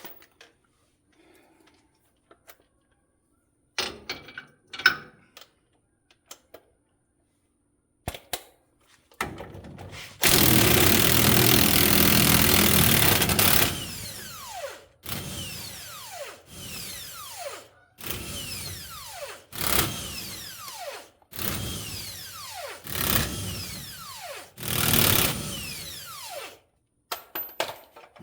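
Cordless impact wrench running in short bursts, backing out the rear axle shaft's flange bolts. There is one long run about a third of the way in, then about seven shorter bursts, each winding down as the trigger is let go.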